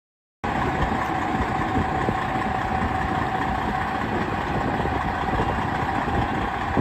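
Semi-truck's diesel engine running steadily, cutting in abruptly about half a second in.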